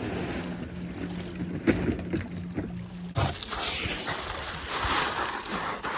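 Water sloshing and rushing around a kayak. A low steady hum in the first half gives way about three seconds in to a sudden, louder rush of water or wind noise.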